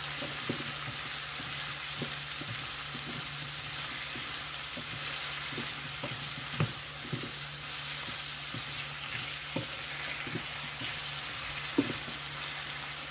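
Sliced okra with potato, tomato and onion frying in oil in a nonstick pan, sizzling steadily while it is stirred with a wooden spatula that knocks against the pan a few times.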